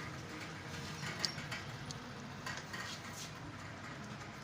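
Scattered light clicks and taps of hand tools and metal parts on a Honda CD70 engine as its timing cover plate is being taken off.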